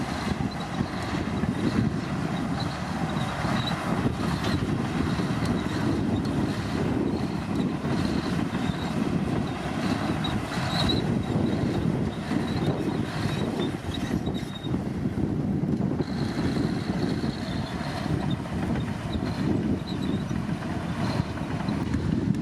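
Komatsu D65P bulldozer's diesel engine running steadily under load, with a faint high-pitched squeal coming and going.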